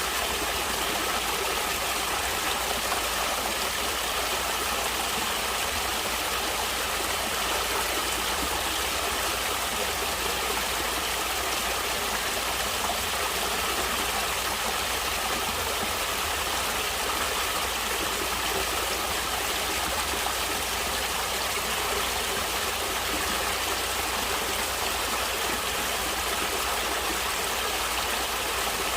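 Flowing water of a natural stream, a steady even rushing that does not change.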